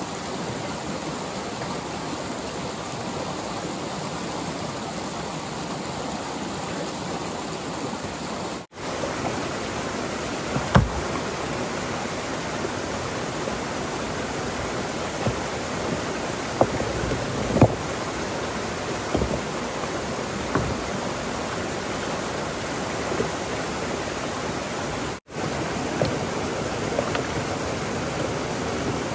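Steady rush of flowing water, with a few short knocks and taps from about ten seconds on. The sound drops out for an instant twice.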